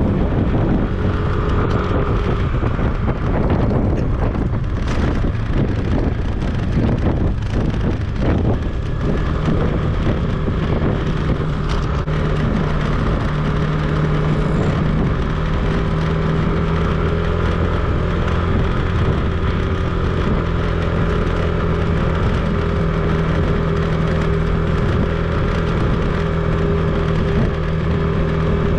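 A vehicle's engine running steadily on the move, with wind noise on the microphone. The engine note wavers for the first several seconds, then settles to a steady pitch about nine seconds in.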